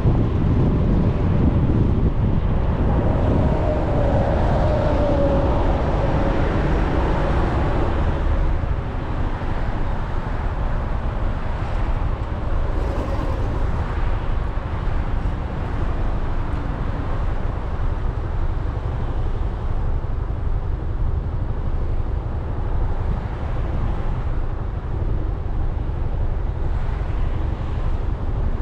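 Wind buffeting a scooter-mounted camera's microphone at riding speed, over the steady drone of a 2020 Suzuki Burgman 400 scooter and its road noise. A faint whine comes through a few seconds in.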